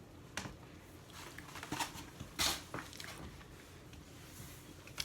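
Quiet eating sounds: a few soft bites and chewing noises with scattered small clicks, the loudest about halfway through.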